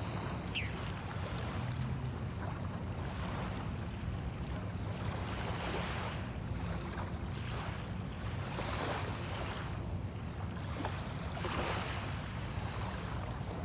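Small waves washing onto the shore every few seconds, each a soft hissing swell, over a steady low rumble of wind on the microphone.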